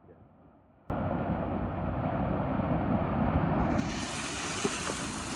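A four-wheel-drive vehicle running, heard as a loud, even rushing noise that cuts in abruptly about a second in after near quiet.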